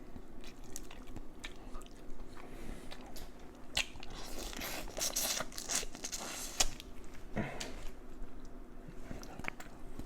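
Close-miked eating: biting and chewing with crunchy, wet mouth sounds, a cluster of louder crunches in the middle.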